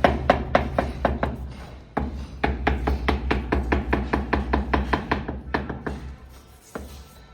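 Vitrified wall tile being tapped down into its adhesive bed: quick, even taps, about four a second, in two runs with a short break about two seconds in, then a few scattered taps near the end.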